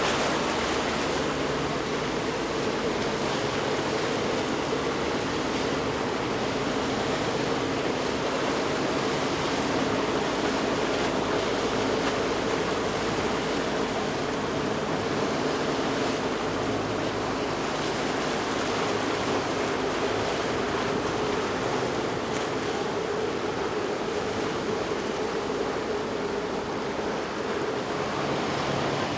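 Steady rush of water and waves in a boat inlet, with a low, steady engine hum from boats underneath.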